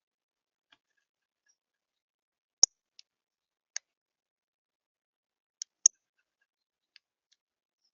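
Birds at a feeder: a handful of short, sharp clicks and taps at irregular intervals, with two louder ones about two and a half and six seconds in.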